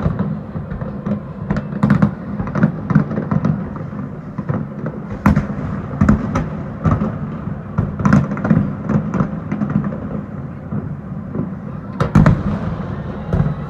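Fireworks display: shells bursting in rapid, irregular succession over a continuous low rumble of distant booms, with the loudest cluster near the end.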